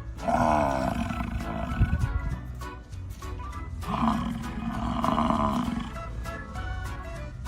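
An animal calling out three times in long, drawn-out pitched calls, the first and second each lasting about a second and a half to two seconds, over background music.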